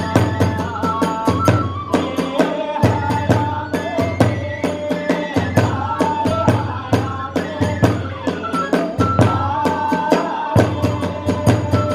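Hiroshima kagura ensemble music: fast, even drum strokes and clashing hand cymbals under a held, wavering flute melody.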